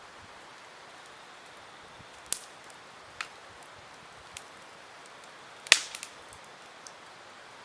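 Wood campfire crackling: a steady faint hiss broken by sharp pops, about six of them, the loudest a little before the end with a couple of smaller snaps right after it.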